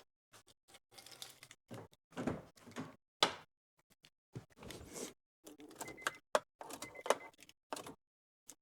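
Scattered clicks, knocks and rustling as a car door is handled and keys jangle before an engine start, with a sharp knock about three seconds in and two faint short beeps near six and seven seconds.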